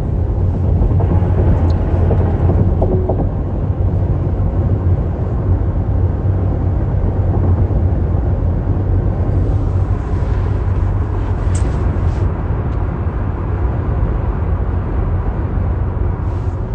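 Steady low rumble of a car in motion, with road and engine noise.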